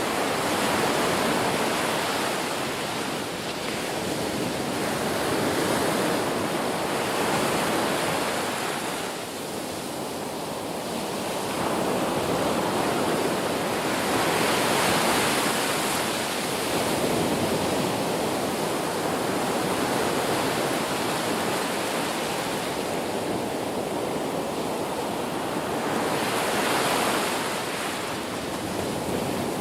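Ocean surf: a continuous wash of breaking waves, swelling and easing every few seconds.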